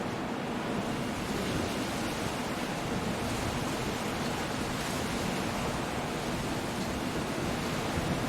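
Coastal storm: waves breaking against the shore with wind, a steady even wash of noise.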